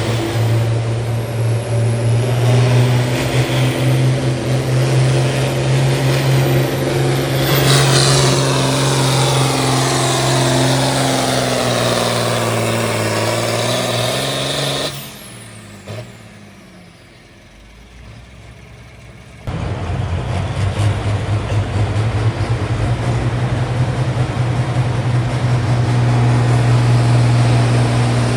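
Pulling tractor's engine running hard and steady, then its pitch falls gradually over several seconds as it labours down the track under load. About halfway through, the sound drops off suddenly for a few seconds, then the engine comes back running steadily.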